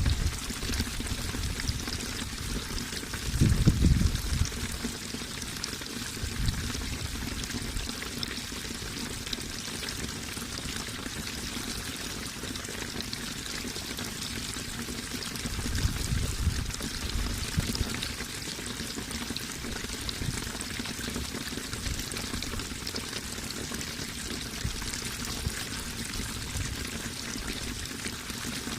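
Running water trickling and splashing steadily, with brief low rumbling swells about 4 and 16 seconds in.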